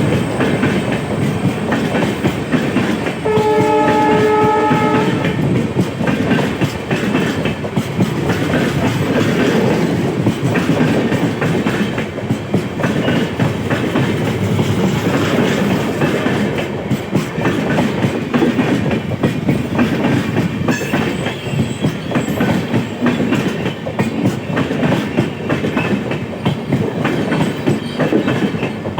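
Passenger train of LHB coaches rolling through the station, wheels clattering over rail joints in a steady clickety-clack. A few seconds in, a train horn sounds once for about two seconds.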